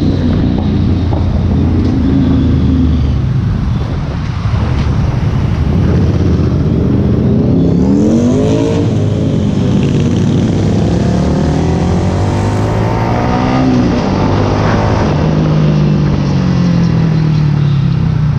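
2019 Ducati Scrambler Cafe Racer's L-twin engine and exhaust running under way. Revs climb about eight seconds in, rise and drop again around fourteen seconds, then fall slowly near the end.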